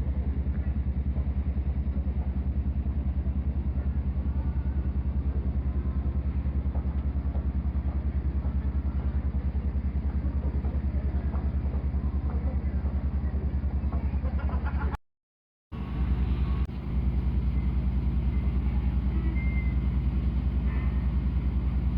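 The engine of the passenger ship Royal Wing (former Kurenai Maru) running under way, a steady low throb with a fast, even pulse. It cuts out for under a second about fifteen seconds in, then carries on the same.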